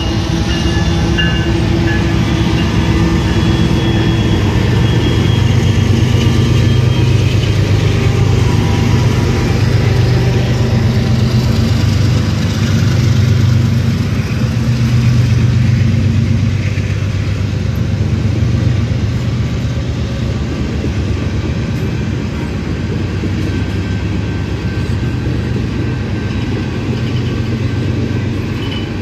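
Freight train passing close by: a BNSF GE ES44C4 diesel locomotive goes by with a steady low engine hum, followed by a long string of loaded-style tank cars rolling over the rails. The rumble is loudest through the middle and eases somewhat toward the end.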